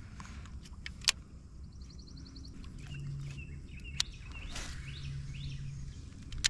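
Birds chirping in short calls, with three sharp clicks or knocks and a low hum that comes and goes.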